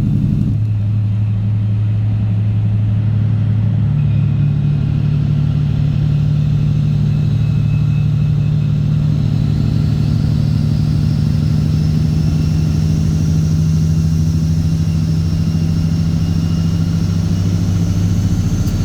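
Straight-piped Cat C15 ACERT inline-six diesel in a Kenworth W900 running steadily as the truck drives, its note changing about four seconds in and then holding steady, with a faint slowly rising whine above it.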